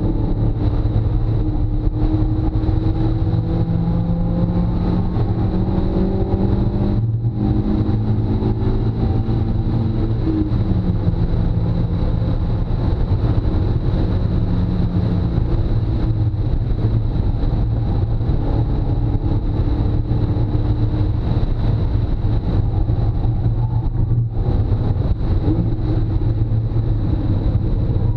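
Car engine on a hard track lap, heard from inside the cabin over steady road and wind noise. The engine pitch climbs under acceleration, breaks briefly about seven seconds in as a gear is changed, and drops later as the car slows, with another short break near the end.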